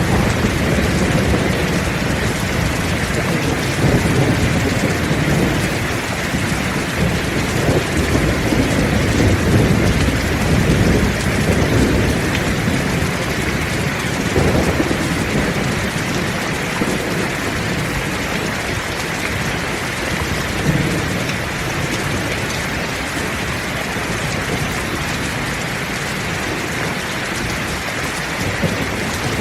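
Heavy rain falling steadily, with thunder rumbling low underneath. The rumbles swell repeatedly through the first half and die down after about the middle.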